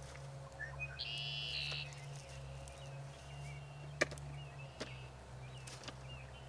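Birds chirping over a steady low hum, with a brighter, louder call about a second in and a sharp click about four seconds in.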